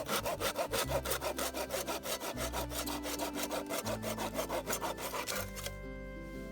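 Hand saw cutting through wood in quick, even back-and-forth strokes, about five a second. The sawing stops about five and a half seconds in and gentle background music takes over.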